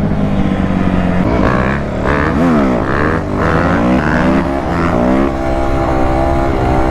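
Dirt bike engine revving, its pitch rising and falling several times, then holding a steady note from about five seconds in.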